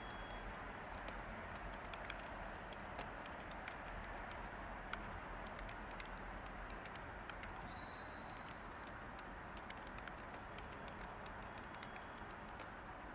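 Light, irregular computer keyboard key clicks over a steady white-noise hiss.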